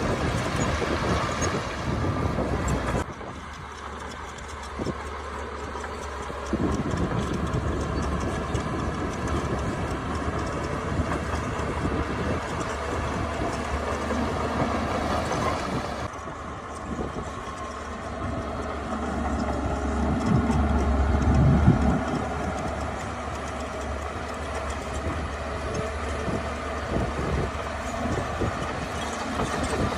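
Diesel engines of heavy earthmoving machinery running steadily, with a low engine sound that changes abruptly twice. The engine swells louder under load about twenty seconds in.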